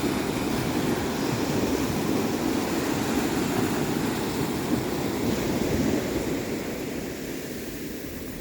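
Steady rush of sea surf breaking on the shore, mixed with wind buffeting the microphone, easing slightly near the end.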